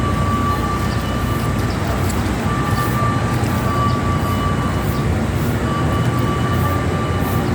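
Steady low engine rumble with a thin high whine that cuts in and out.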